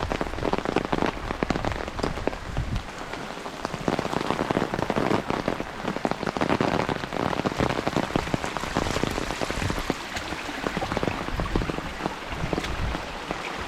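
Steady rain falling, with many close drops pattering; a low rumble sits under it in the first few seconds and again near the end.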